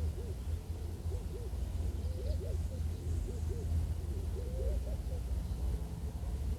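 Reed stems creaking against each other in the wind, making many short hoot-like squeaks that rise and fall in pitch and overlap irregularly, over a steady low wind rumble.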